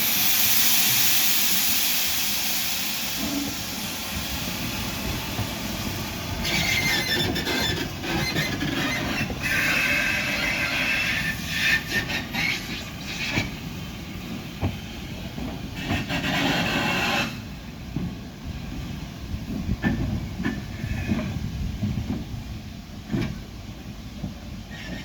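Southern Railway S15 class 4-6-0 steam locomotive 30506 and its train: a loud hiss of steam in the first few seconds, then high metallic squealing from the train's running gear from about six to seventeen seconds in, with scattered clanks and knocks.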